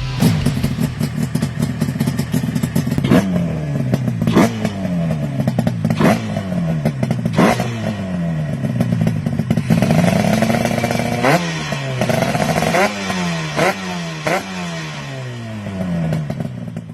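Motorcycle engine being revved in repeated throttle blips, each jumping up sharply and falling slowly back toward idle, about every one to two seconds.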